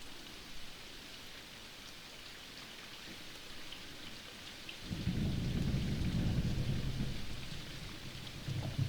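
Rain falling steadily, a hiss with scattered drop ticks, then thunder rumbling low and long from about halfway through.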